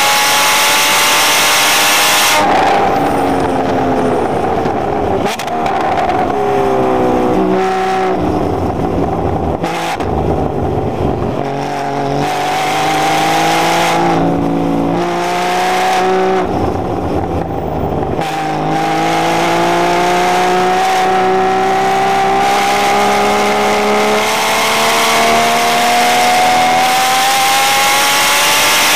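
Porsche sports car's engine heard from inside the cabin on track, its pitch falling sharply about two seconds in as it slows for a corner, then dipping and rising several times through a run of corners and gear changes. It then climbs in one long steady rise over the last ten seconds or so as the car accelerates.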